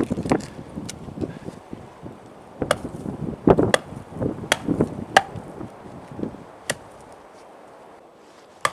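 Axe chopping into a dry, dead log round to split it lengthwise: about eight sharp strikes at irregular intervals, the last near the end.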